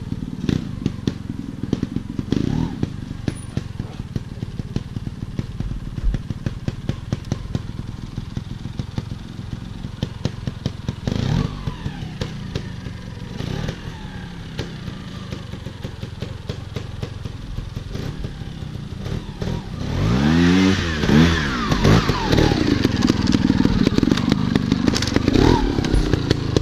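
Off-road motorcycle engine running with a rapid, even beat. About two-thirds of the way through it is revved hard several times, the pitch sweeping up and down, and it stays louder to the end.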